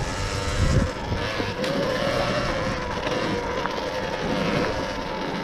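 Sur-Ron Ultra Bee electric enduro bike riding: a steady electric motor whine that rises a little over the first two seconds, over tyre and wind noise.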